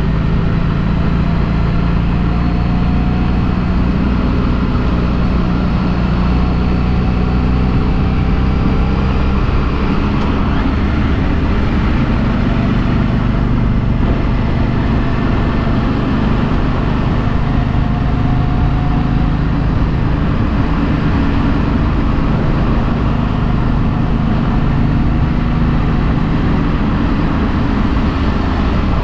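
Harley-Davidson Street 500's V-twin engine running through its stock exhaust at a fairly steady speed while riding, with wind and road noise on a helmet-mounted microphone.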